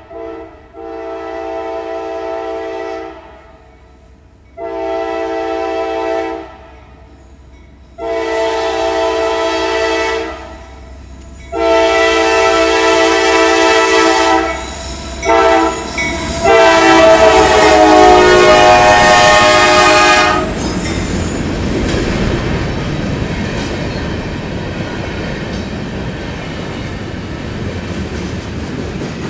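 Locomotive horn blown in a string of blasts, several notes sounding together, each louder than the last as the train approaches. After a final long blast about twenty seconds in, the horn stops and the steady noise of the train passing takes over.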